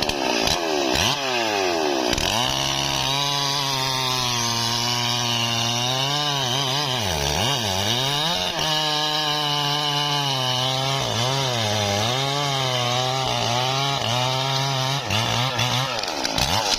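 Stihl MS440 two-stroke chainsaw revving up, then running at high speed while cutting into a tree trunk. The engine pitch sags and recovers several times as the chain bites under load, dipping deepest about halfway through and again near the end.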